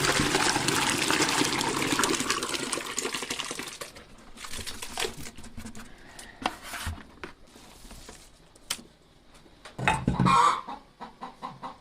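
Wet poultry feed mash of corn flour and soaked oilseed cake being stirred in a container: a wet, sloshing noise for about four seconds, then scattered clicks and knocks. Chickens cluck near the end.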